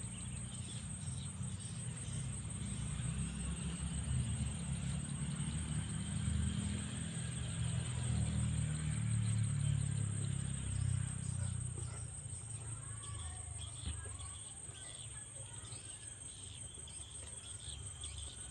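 Insects keep up a steady, high-pitched trilling like crickets, under a low rumble that swells in the middle and fades after about twelve seconds. Faint bird chirps come in the second half.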